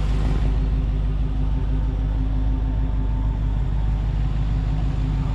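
Supercharged 6.2-litre V8 of a Dodge Hellcat Redeye running steadily at an even, unchanging engine speed, without revving.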